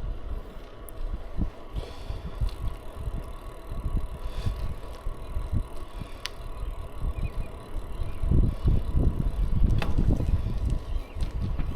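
Riding a bicycle: wind buffeting the microphone, getting louder about eight seconds in, with a few sharp clicks and rattles from the bike.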